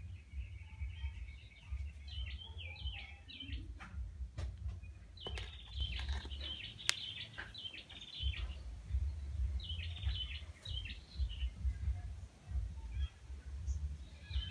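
Small birds chirping in scattered clusters of quick, high calls, over a low, uneven rumble.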